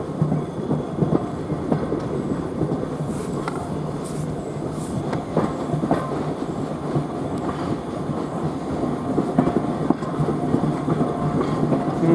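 A railway carriage running along the line, heard on board: a steady rumble with scattered clicks and knocks from the wheels over the rail joints.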